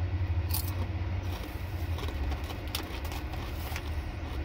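Thin, crunchy potato chips being chewed, with irregular crisp crunches, and the chip bag rustling as a hand reaches back in near the end. A steady low hum sits underneath.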